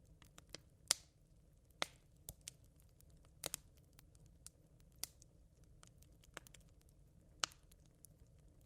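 Smouldering campfire embers crackling: irregular sharp pops, about a dozen, over a faint low hiss.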